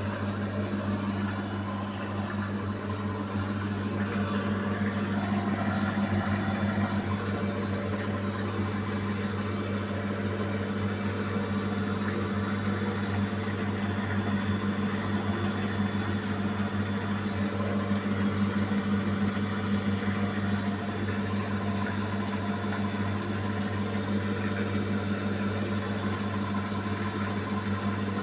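Beko WMY81283LMB2 front-loading washing machine in its final spin, the drum turning steadily with a steady motor hum. The load of curtains is unbalanced.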